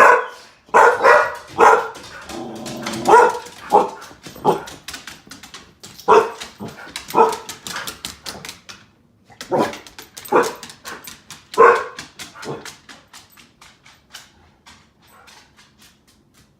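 Pit bull barking, a dozen or so short loud barks in runs with brief pauses, fading to faint clicks near the end.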